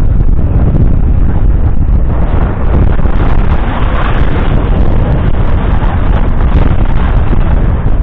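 Fendt 724 Vario's 6.1-litre six-cylinder diesel working under load with a cultivator, almost buried under heavy wind buffeting on the microphone. The noise swells in the middle as the machine draws closer.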